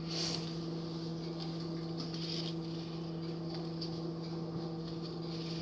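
A steady low hum runs throughout, with faint rustling and a few light ticks, as of small objects being handled.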